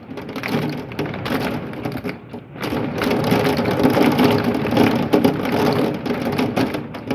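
Marble-sized hail and heavy rain pelting down in a thunderstorm: a loud, dense, rapid clatter of small impacts over a rushing hiss, easing briefly about two and a half seconds in.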